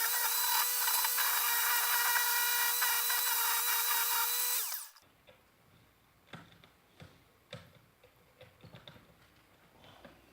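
An electric power tool running at a steady high-pitched whine, then switched off about five seconds in and winding down quickly. After that come a few light clicks and knocks of things being handled.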